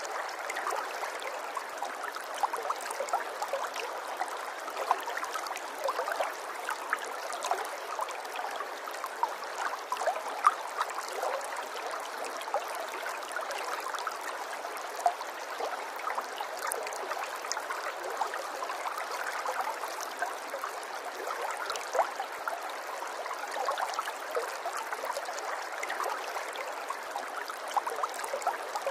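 Running water from a small stream, trickling and gurgling steadily with many quick little splashes.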